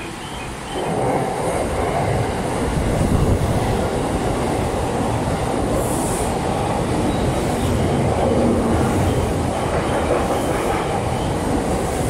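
JR East E233-6000 series electric train running in alongside the platform: the rumble of its wheels and running gear on the rails swells about a second in and then holds steady, with a brief high hiss about halfway through.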